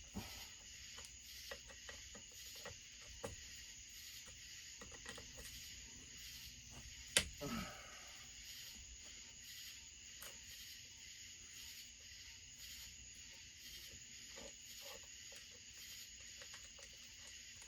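Scattered small clicks and taps of hand tools and metal parts during a chainsaw teardown, with one sharper, louder click about seven seconds in. Behind them runs a faint, steady, high chirring of night insects.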